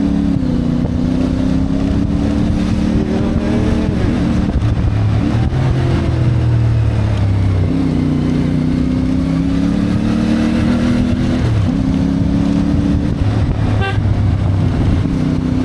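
CFMoto 450MT's parallel-twin engine under way, its pitch climbing as it pulls and dropping back several times at gear changes.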